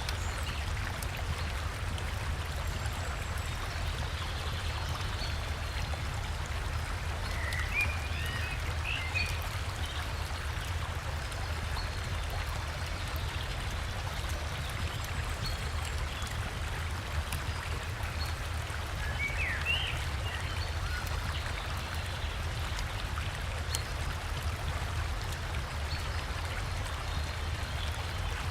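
Steady rushing of a forest river and small waterfall, with a deep low rumble under the water noise. Short bird chirps come through twice, about a third of the way in and again about two-thirds in.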